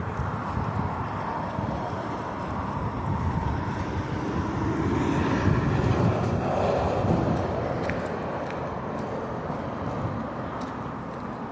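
A vehicle passing, its noise swelling to a peak about six seconds in and then fading.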